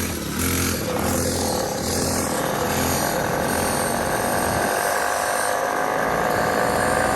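Small motorbike engine running, with a low throb pulsing a little faster than once a second for the first four or so seconds, then a steadier hum.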